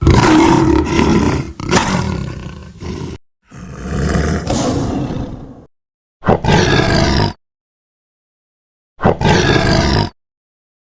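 Lion roaring: four roars with silence between, the first two long and the last two shorter.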